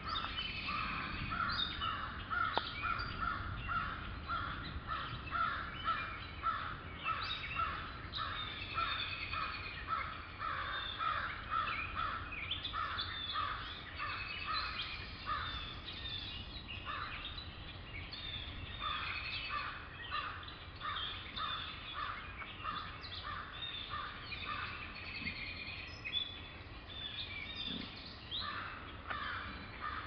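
Woodland birds calling. One bird repeats a short note over and over, about two a second, with a couple of pauses, over a background of higher chirps and songs from other birds.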